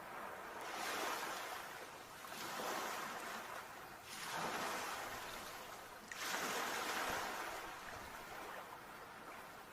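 Sea waves washing ashore: four swells of surf noise about two seconds apart, the last one the longest, then dying down near the end.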